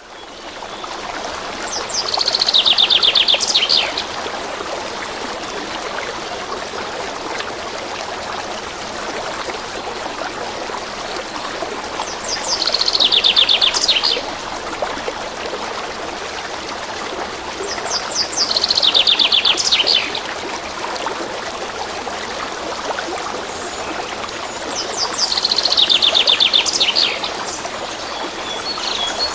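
Stream water running steadily, with a songbird singing a fast trill of rapidly repeated high notes four times, each about two seconds long.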